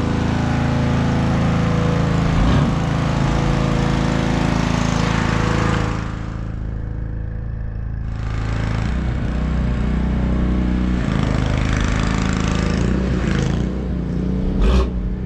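A car engine running steadily with a low droning note. Its higher-pitched noise drops away for a couple of seconds about six seconds in, and there is a sharp knock near the end.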